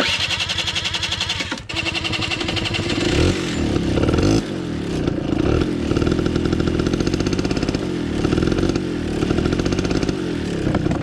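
Yamaha dirt bike engine catching the moment its faulty starter is jumped with a hand-held wire, then running loudly. It falters briefly about a second and a half in, then picks up and is revved up and down a few times before settling to a steady run.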